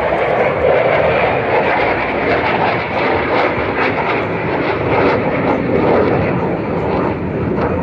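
Loud, steady jet noise from an F-16 Fighting Falcon flying its display.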